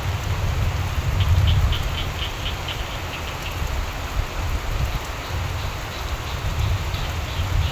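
Steady rain with a low rumble underneath. About a second in, a frog calls a quick run of pulsed croaks, about five a second, for some two seconds, with fainter calls later.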